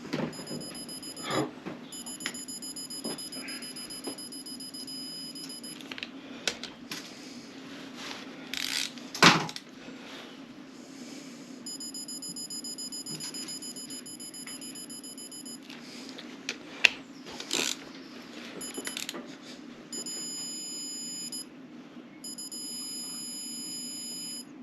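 A high-pitched electronic whine with several overtones comes and goes in stretches of a few seconds over a steady low hum. Several sharp clicks and knocks from hand tools on the engine sound through it, the loudest about nine seconds in.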